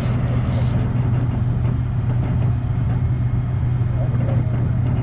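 A vehicle engine idling steadily, a constant low hum, with faint voices around it.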